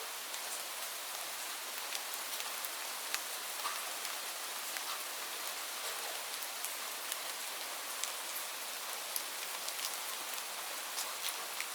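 Steady rainfall: an even hiss of rain with many individual drops ticking sharply on a surface, scattered irregularly throughout.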